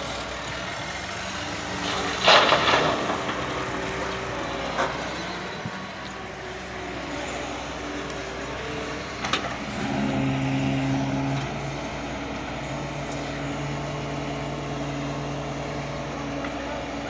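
Doosan DX140 hydraulic excavator's diesel engine running as it works, with a loud rushing burst about two seconds in and a few sharp knocks. The engine note grows stronger and steadier about ten seconds in, as under hydraulic load.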